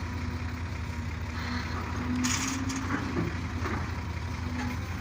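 Heavy diesel earthmoving machinery running steadily, with an on-and-off whine and a short hiss a little over two seconds in.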